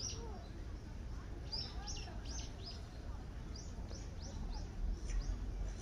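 A bird calling in runs of short, high, downward-slurred chirps, three or four quick notes at a time, over a steady low rumble.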